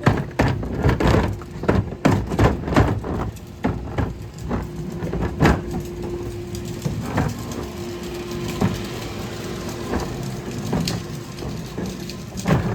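Wheeled plastic trash can being rolled over wet pavement: a rapid clatter of knocks and clacks for the first few seconds, then scattered knocks over a steady rolling rumble.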